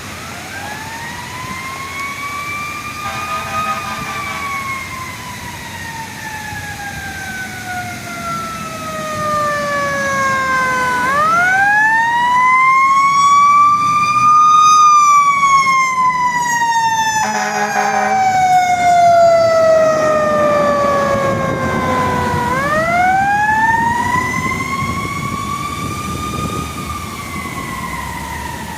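Fire engine's Federal Q mechanical siren screaming in slow wails, each winding up over a few seconds and coasting down over about eight, three rises in all. Two short air horn blasts cut in, one about three seconds in and one past the middle, and the whole is loudest in the middle.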